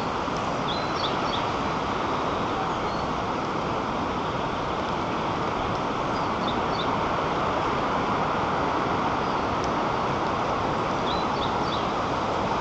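Steady rushing of wind through the treetops, with a small songbird giving a short, high chirping phrase three times, about five seconds apart.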